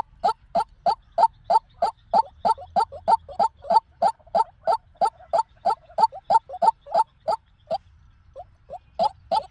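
White-breasted waterhen calling: a fast run of short, croaking notes repeated about three times a second. The run breaks off near the end, then starts again with a few softer notes building back up.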